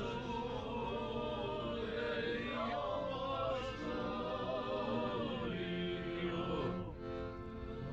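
Music of several voices singing together in a choir, chant-like, running steadily.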